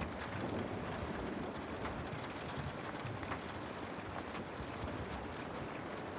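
Steady rain falling, an even hiss with a low rumble, and scattered individual drops ticking through it.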